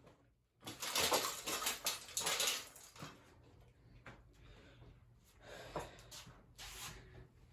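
Broken ceiling fan parts clattering and scraping, in a dense burst for about two seconds near the start, then a few fainter rattles later on.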